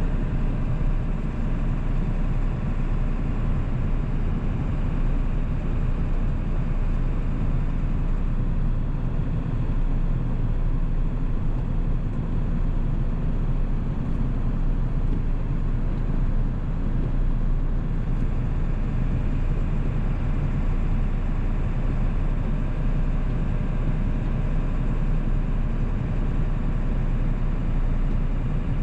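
1997 7.3-litre Powerstroke turbodiesel V8 engine running at a steady cruise while the truck drives, with a constant low drone and road noise.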